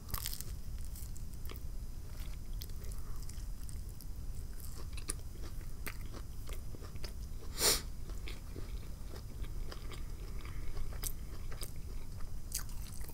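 Close-miked chewing of a bite of a BLT sandwich: soft, irregular crunches and wet mouth clicks, with one louder crunch about seven and a half seconds in.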